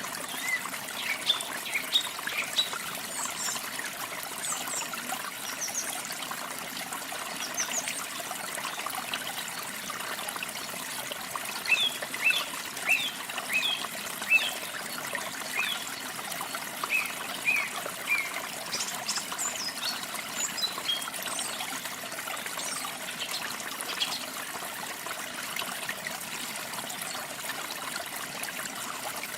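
Water trickling steadily, with small birds chirping over it in scattered clusters of quick high notes.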